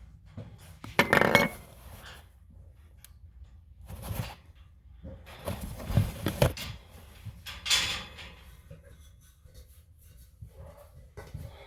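Objects being handled with an irregular clatter and a few clinks, in short bursts about a second in, near four seconds, around six seconds and near eight seconds.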